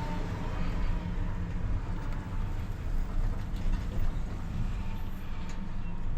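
Vehicle engine running with a steady low rumble and a few light clicks.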